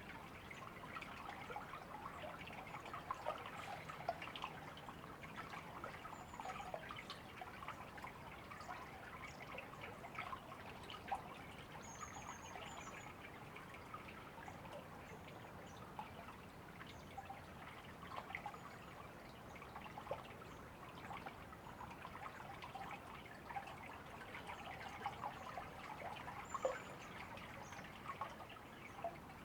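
River water babbling and trickling steadily, with a few faint, brief high bird chirps now and then.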